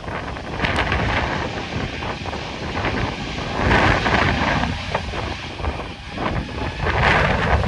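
Strong gusty wind buffeting the microphone, the rushing noise swelling and falling in surges, with a steady low rumble underneath.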